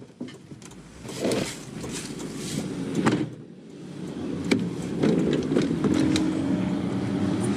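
Minivan on the move: engine and road noise with scattered knocks and rattles, and a steadier low hum in the second half.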